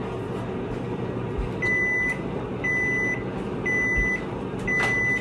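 Microwave oven running with a steady hum, then beeping four times, about once a second, to signal that the heating cycle is finished.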